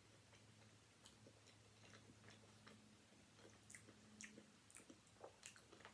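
Near silence: faint closed-mouth chewing of a mouthful of ham and cheese panini, soft irregular clicks and mouth noises, over a low steady hum.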